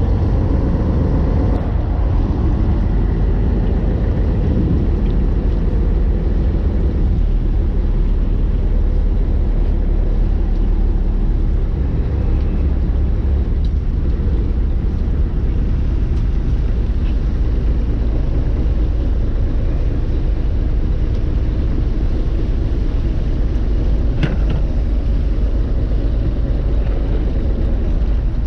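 Fishing boat under way: a steady, loud rumble of the engine and the hull through the water, without a break.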